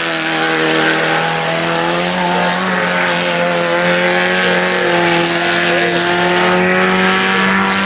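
Several IMCA Sport Compact race cars' four-cylinder engines running together at a steady, moderate pace, an even drone of overlapping engine notes with no revving up.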